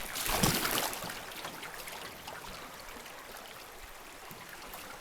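Creek water trickling and lapping around a canoe, with a louder wash of water in the first second before it settles to a steady murmur.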